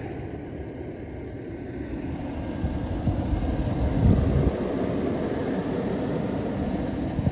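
Vehicle on the move: a steady low rumble of engine and road noise that swells for a second or so about four seconds in.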